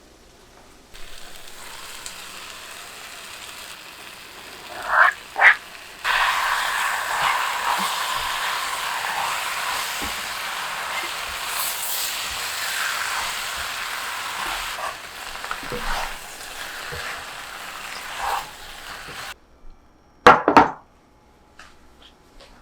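Food sizzling in a frying pan, with scattered light clicks of a utensil. The sizzle jumps louder about six seconds in and cuts off abruptly near the end, followed by a couple of sharp knocks.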